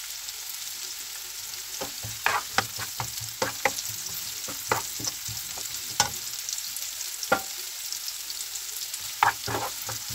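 Chopped onion and garlic sizzling steadily in hot olive oil in a frying pan, stirred with a plastic spoon that scrapes and taps against the pan in short clicks every second or so.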